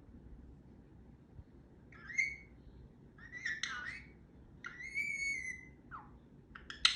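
Pet parrot giving a few short whistled calls and chatters, the longest a held whistle that falls slightly in pitch, then a short downward whistle. Near the end a loud, fast run of sharp clicks begins.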